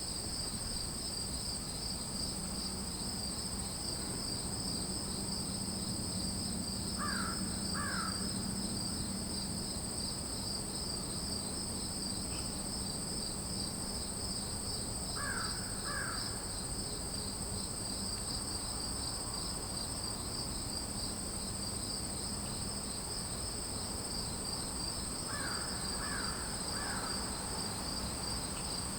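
A steady chorus of crickets and other insects trilling at a high pitch. A bird calls three times in short groups of two or three quick notes, about 7 seconds in, about 15 seconds in and near the end, over a faint low hum.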